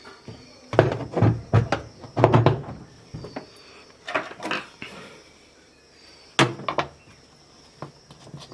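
Knocks and clunks of a washing machine's plastic pulsator wheel and its parts being fitted back onto the shaft in the tub: a cluster of knocks in the first few seconds, a few more midway, and one sharp click later on.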